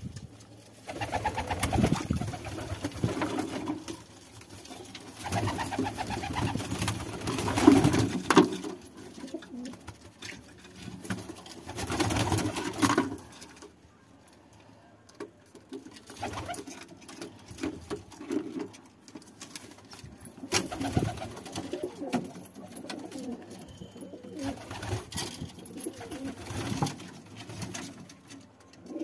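Domestic pigeons cooing in repeated bouts, loudest in the first half, with a brief lull about halfway through and softer cooing afterwards.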